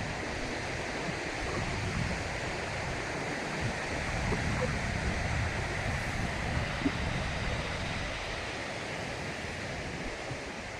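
Sea surf washing on a beach, a steady rushing noise that swells a little in the middle, with wind buffeting the microphone.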